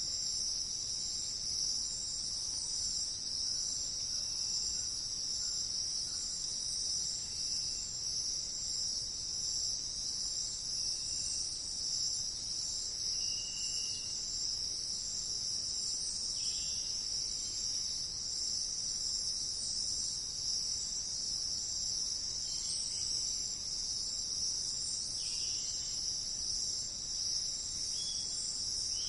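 Steady high-pitched insect chorus in a forest. Faint short bird calls sound now and then over it.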